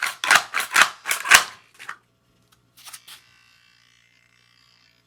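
Close handling noise: a quick run of about six short scraping clacks in the first two seconds, then two fainter ones about three seconds in.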